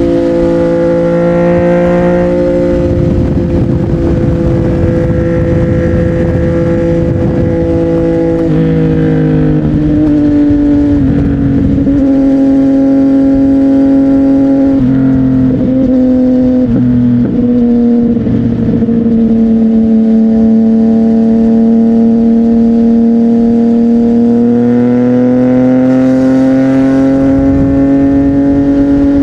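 CFMOTO 675NK's three-cylinder engine running through a Burnout titanium exhaust while being ridden. The pitch holds, then drops and jumps several times in the middle as the throttle changes, and climbs slowly near the end.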